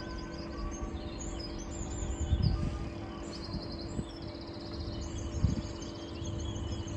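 Night chorus of small frogs giving short, high, pulsing trills, over a steady low hum. Two low thumps come at about a third of the way in and again near the end.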